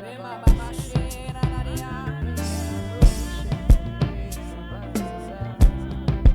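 Live worship band playing without singing: sustained keyboard chords over a drum kit with kick, snare and rimshot hits and a cymbal swell a few seconds in.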